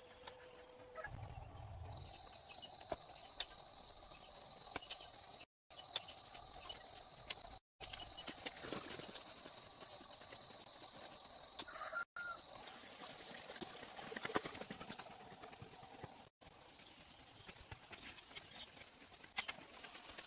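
Steady high-pitched insect chorus with scattered small clicks and knocks. The sound cuts out briefly four times.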